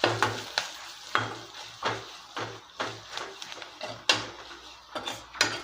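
A spoon scraping and knocking against a kadai as spiced vegetables are stirred, about two strokes a second.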